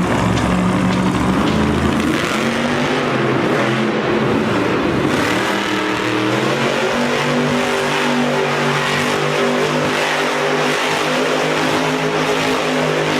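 Monster truck's supercharged V8 engine running loudly in an arena. The engine note is held fairly steady, with a shift in pitch about five seconds in.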